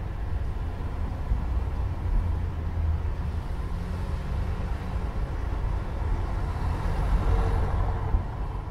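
Steady low mechanical rumble with a hiss of noise above it.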